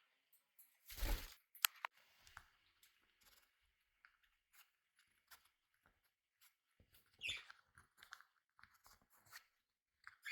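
Pet budgies and cockatiels pecking and chewing, giving scattered soft clicks and crunches, with a louder rustle about a second in and a short falling chirp about seven seconds in.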